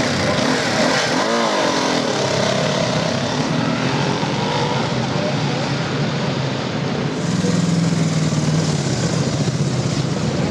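Motorcycle engines running over a background of crowd chatter, with a steady engine note coming up about seven seconds in.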